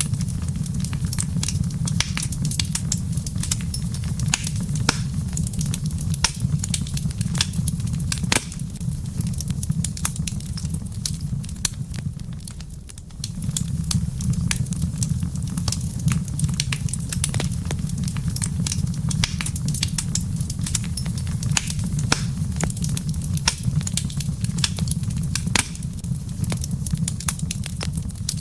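Wood fire crackling in a fireplace: irregular sharp pops and snaps over a steady low rumble. The rumble drops away briefly about halfway through.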